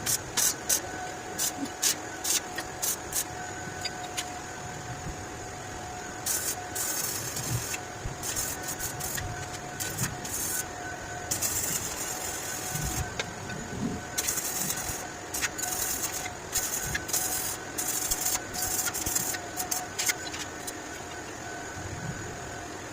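Metalwork on a motorcycle exhaust pipe: a run of sharp taps, then repeated hissing, crackling bursts of a second or two each over a faint steady hum.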